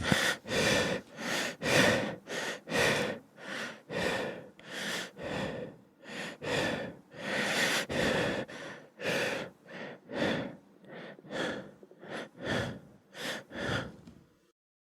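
Quick, heavy human breathing, in and out through the mouth, a little under two breaths a second, as if out of breath. It stops near the end.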